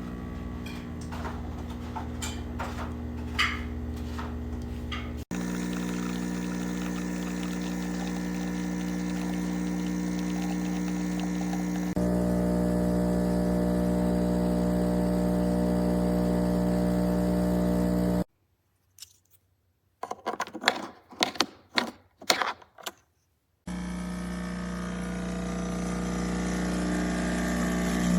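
De'Longhi Stilosa espresso machine's pump running with a steady, pitched hum, in several cut-together stretches. In a quiet gap past the middle come a handful of sharp clicks and knocks.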